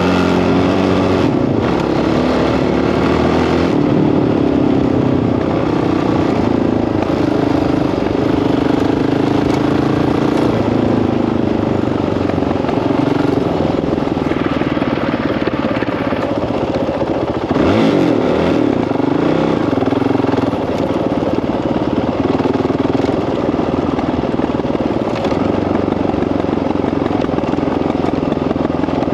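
Dirt bike engine running while riding, its revs rising and falling with the throttle; the revs drop and pick up again sharply about eighteen seconds in.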